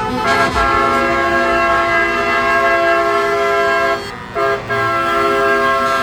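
Truck air horns blowing a loud, sustained multi-tone chord, cutting out briefly about four seconds in and again just after before sounding on.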